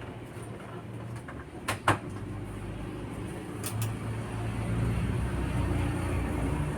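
Konzert 502B amplifier humming low through its speaker, with a few sharp crackles about two seconds in; the hum grows louder from about four seconds. The crackling is the fault being traced.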